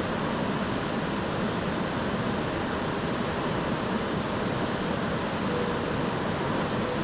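Steady rushing noise that holds level throughout, with a faint thin tone in the last second or so.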